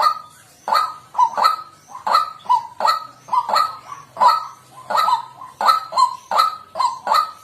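White-breasted waterhen calling: a harsh, honking "kwak" note repeated over and over, about two to three calls a second.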